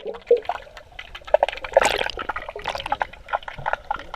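Pool water bubbling and gurgling around a camera held underwater, a dense irregular crackle of small bubble pops.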